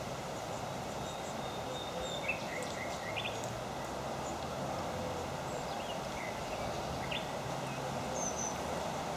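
Steady hiss of outdoor background noise with a few faint, short high bird chirps scattered through it, in small clusters.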